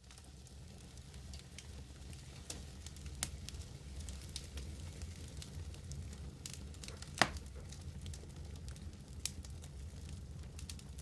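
Wood fire burning in a fireplace: a steady low rumble of flames with scattered crackles, and one sharp, loud pop about seven seconds in.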